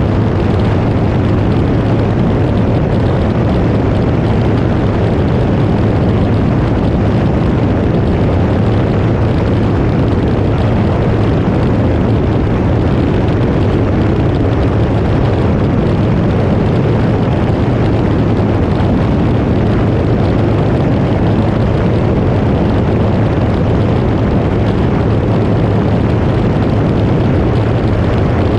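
Cirrus SR20 single-engine piston airplane's engine and propeller giving a loud, steady drone mixed with a rushing noise, unchanging throughout.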